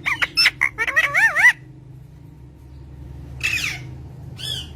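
Green parrot calling: a quick run of chirps and warbling, wavering whistles for about a second and a half, then, after a pause, two short, harsher squawks near the end.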